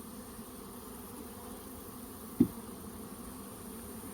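Honey bees buzzing steadily, with one short, sharp thump about halfway through.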